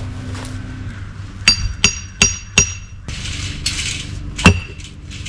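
A hammer striking a steel splitting wedge in an oak round. There are four quick ringing metal-on-metal blows, then a short noisy stretch, then a single louder ringing blow near the end.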